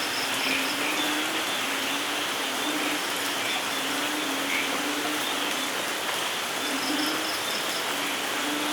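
Steady rain falling, an even hiss, with a short low note repeating about every second underneath and a few faint high chirps.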